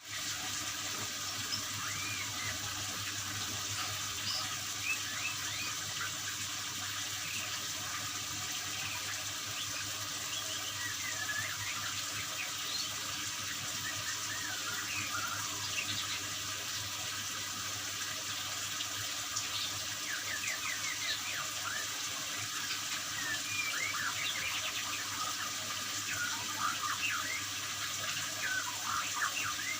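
Steady running water, like a tap or small fountain, with many short, scattered bird chirps over it.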